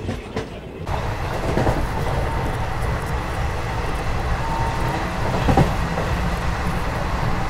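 Express passenger train running at speed, heard from the side of a coach: wheels clicking over rail joints, then from about a second in a steady rush of wind and rolling noise. A sharp knock about five and a half seconds in is the loudest moment.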